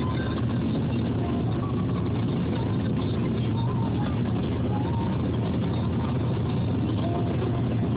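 Steady road and engine rumble of a car driving, heard inside the cabin.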